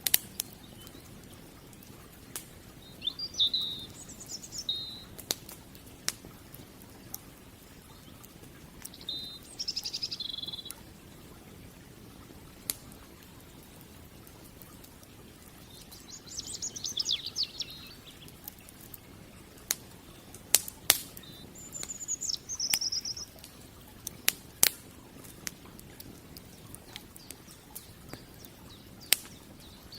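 Wood campfire crackling, with a dozen or so sharp pops scattered irregularly through it. Songbirds sing short chirping phrases every few seconds.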